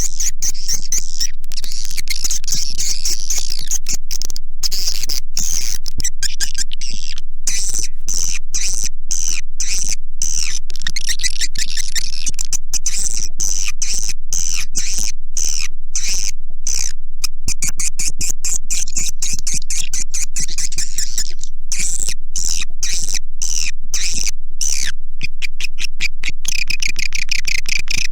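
Recorded edible-nest swiftlet calls, used as a lure: dense, high twittering chirps in quick chopped pulses with short breaks, and lower trilling chirps joining near the end.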